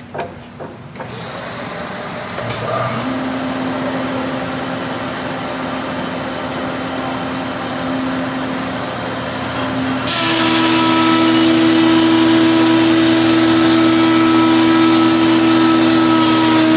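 Oneida Supercell dust collector spinning up with a high whine, joined a couple of seconds later by the hum of a 20-inch helical-head planer. About ten seconds in a 12-inch-wide walnut board enters the planer and a loud, steady rush of cutting and chip noise takes over.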